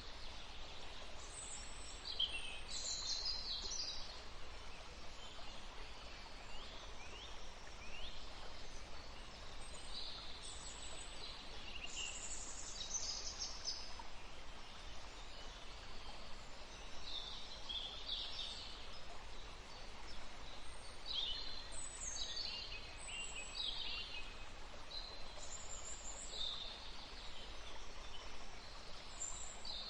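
Wild songbirds chirping and calling on and off in short high-pitched phrases, over a steady background hiss.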